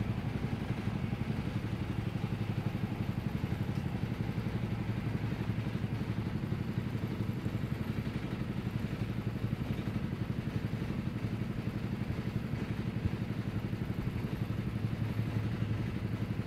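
Crop-spraying helicopter running steadily, a fast even throb that holds the same level throughout.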